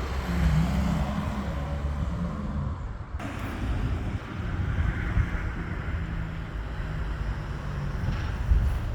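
Wind rumbling on the microphone with a vehicle engine running nearby, its low hum wavering in pitch. The sound breaks off abruptly about three seconds in and resumes.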